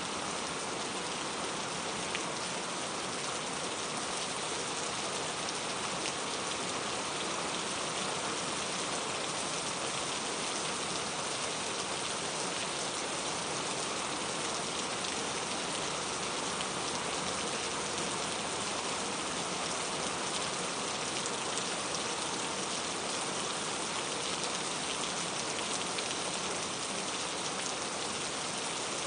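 Steady rain falling, an even hiss of many drops spattering on surfaces, with no change in intensity.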